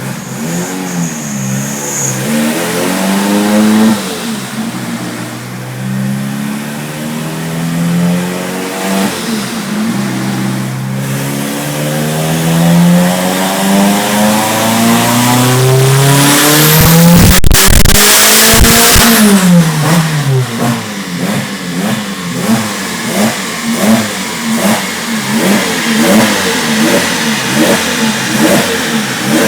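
Turbocharged Renault F4R 2.0 16-valve four-cylinder engine on a dyno pull, the revs climbing steadily with a brief dip about four seconds in. Near the top a sharp burst is heard, then the revs fall away with a choppy, uneven exhaust sound.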